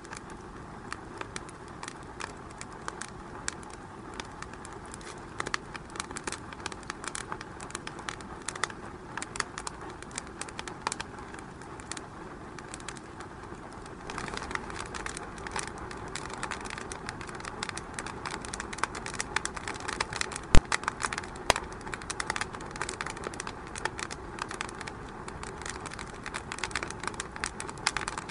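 Wood fire in a fireplace crackling, with many small irregular snaps over a steady low hiss, growing a little louder about halfway, and two sharper pops a little past the middle.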